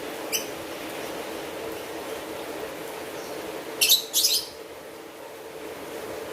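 Steady rainfall with a bird chirping over it: one short chirp just after the start, then two louder chirps in quick succession about four seconds in.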